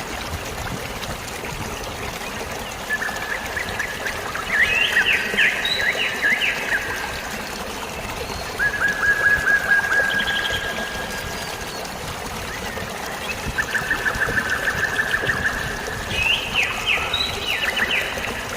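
Flowing water trickling and splashing steadily, with birds singing over it. A rapid trill of about a second and a half comes three times, and two bursts of quick, higher chirps come in between.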